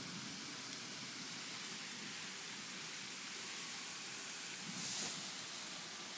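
Rain falling in a hailstorm, a steady hiss, briefly louder about five seconds in.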